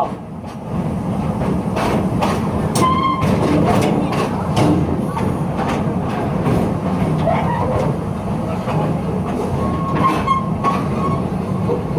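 Serengeti Express park train rolling along its track with a steady rumble and scattered clacks and knocks from the wheels and cars as it comes into a station.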